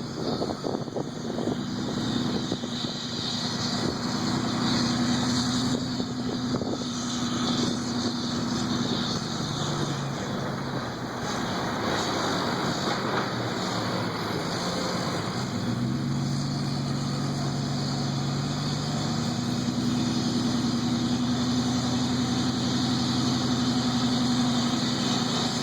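Delivery truck's engine labouring up a hill, a steady engine note over road noise. The pitch drops and later climbs back up once or twice through the middle, as with gear changes under load.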